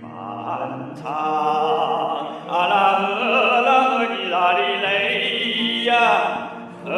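A singer performing a Chinese folk song in long, sustained notes with a wavering vibrato, growing louder about a third of the way in.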